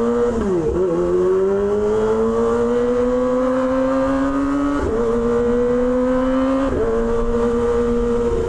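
Kawasaki Ninja ZX-25R's 250 cc inline-four running through an SC Project exhaust under way. The engine note climbs steadily as the bike pulls, broken by brief dips in pitch at gear changes, about one second, five seconds and seven seconds in.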